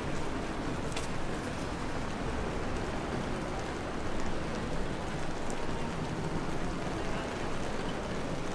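Steady rain falling on a city street: an even hiss with a few small sharp drop ticks.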